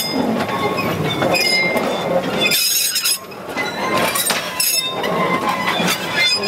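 Freight train wagons rolling on the rails, with metallic clinks and thin, high wheel squeals that come and go.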